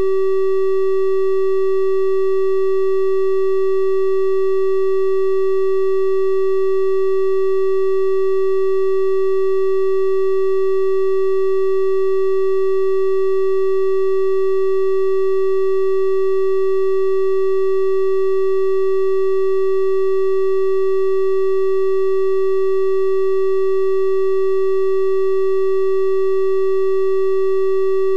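Synthesized 384 Hz triangle-wave test tone, held steady and unchanging, with its faint higher overtones.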